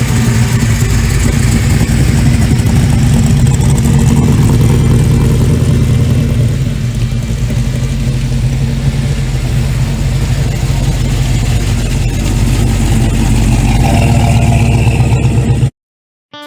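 Loud car engine running steadily with a deep, low rumble, cutting off suddenly near the end.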